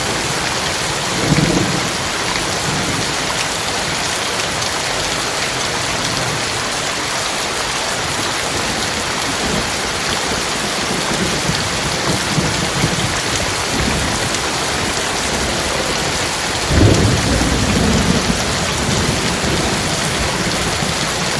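Heavy rain pouring steadily, with thunder rumbling: a short rumble about a second in and a louder, longer roll about three-quarters of the way through.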